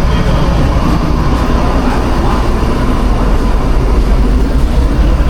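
Steady, loud low rumble of machinery in a food truck kitchen, with an even rushing noise on top and no clear changes.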